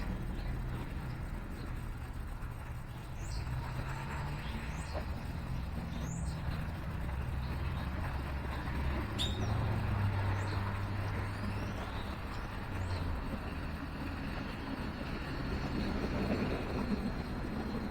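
Steady low rumble of road traffic, with about half a dozen short, high bird chirps scattered through it.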